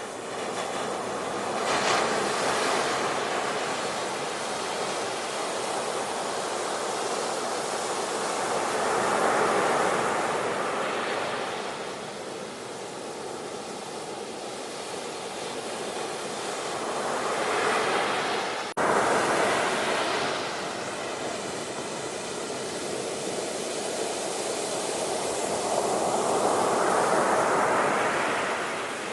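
Ocean surf: waves breaking and washing in, swelling and fading about every eight to nine seconds. About two-thirds of the way through the sound breaks off abruptly and resumes at once.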